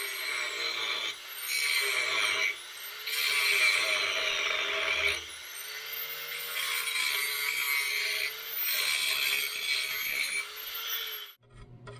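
Grinder grinding steel in repeated passes of one to two seconds, its motor pitch dipping under load and rising again between passes. It is grinding out cracks in the backhoe loader's steel uprights ready for welding. The grinding cuts off suddenly near the end.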